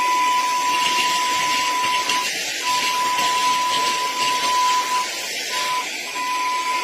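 Cordless handheld mini vacuum running, a steady high motor whine over rushing air hiss as it sucks up debris. The whine briefly dips three times, about two seconds in and again near the end.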